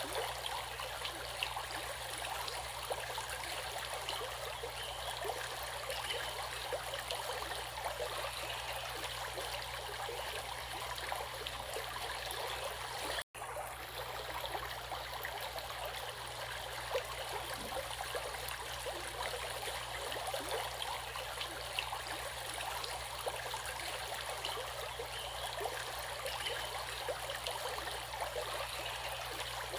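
Running water of a stream, a steady rushing and trickling, that cuts out for an instant about 13 seconds in.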